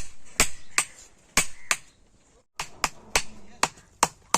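Blacksmith's hand hammer striking steel as a farm-tool blade is forged, sharp ringing blows at two to three a second, with a brief break a little past the middle.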